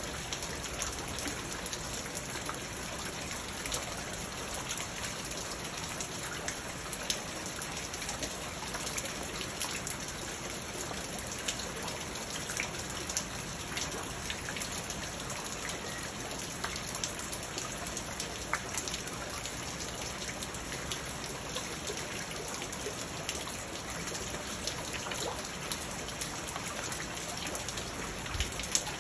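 Steady rain falling into a garden pond and onto the leaves and stones around it: an even wash of rain with many scattered sharp drop hits, and a steady high hiss above it.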